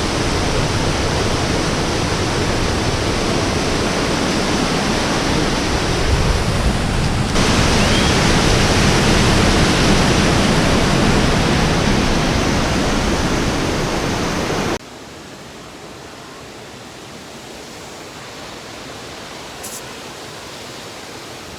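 The steady roar of Pistyll Rhaeadr, a tall waterfall, with heavy water crashing down. The sound shifts abruptly about a third of the way in, then drops suddenly to a much quieter rush about two-thirds through.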